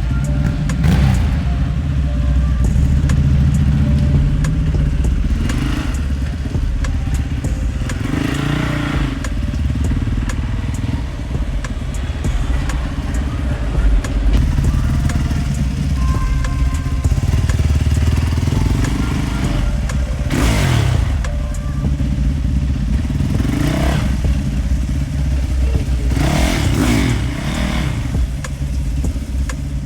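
Road traffic: a steady low engine and road rumble, with about six vehicles passing by one after another, each rising and falling in pitch as it goes past.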